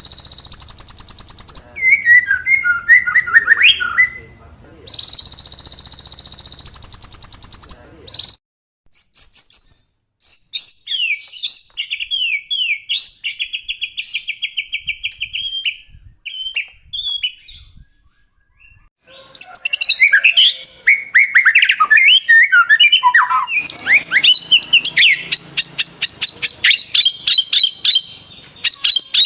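White-rumped shama (murai batu) singing: two long, rapid, buzzy high-pitched trills in the first eight seconds, then scattered whistled phrases with short pauses, and a dense, fast run of varied notes over the last ten seconds.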